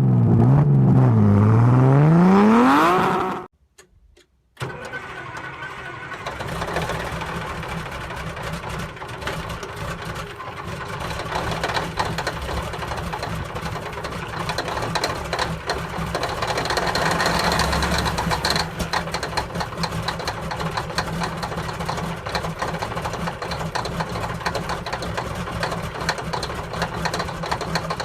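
A loud rising revving sound for about three seconds, cut off by a second of silence; then a diesel engine cold-starting and running with a dense, rough clatter, a little louder for a couple of seconds about seventeen seconds in.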